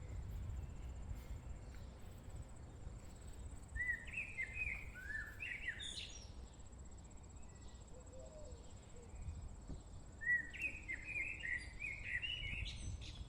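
A songbird sings two similar phrases of quick chirps, about four seconds in and again about ten seconds in, over a thin steady high insect drone.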